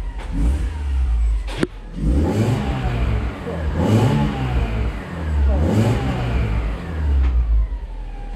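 Alfa Romeo 146 Ti's 2.0 Twin Spark four-cylinder engine revved in several quick throttle blips, its pitch rising and falling each time, through a cat-less exhaust with the catalytic converter cut out. The revs climb quickly. There is one sharp click about one and a half seconds in.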